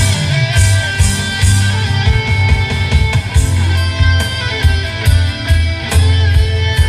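Pop band playing an instrumental break: guitar over a heavy bass line and a steady drum beat, with no singing.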